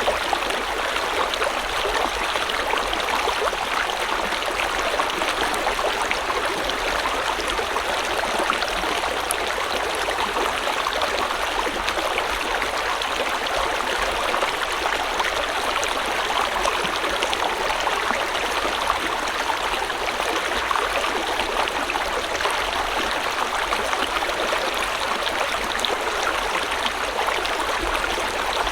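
A river or stream flowing and splashing, a steady rushing with small crackles and gurgles throughout.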